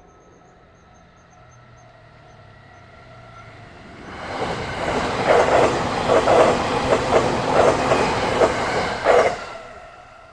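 A JR Nanbu Line train passing a level crossing: the noise builds about four seconds in, the wheels clatter over the rail joints in a run of heavy beats, then it fades near the end. The crossing's warning bell rings faintly with it.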